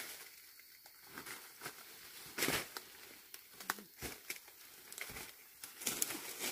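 Irregular rustling and crinkling with scattered short clicks and knocks, loudest in a brief burst about two and a half seconds in.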